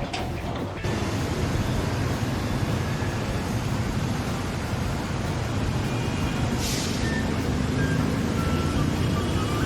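A vehicle engine running steadily, with a brief hiss about seven seconds in.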